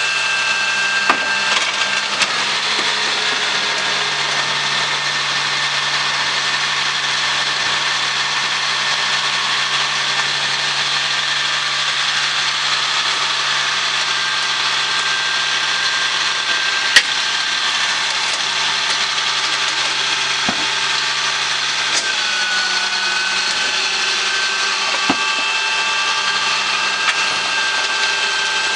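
GMC Topkick side-load trash truck running, with a steady whine from its lift hydraulics that drops slightly in pitch about three quarters of the way through. A few sharp clanks, the loudest about two thirds of the way in.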